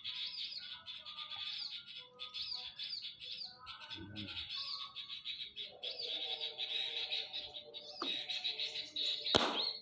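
Small birds chirping: a fast, continuous series of high, short chirps, with a lower whistled song joining about six seconds in. A sharp click comes near the end.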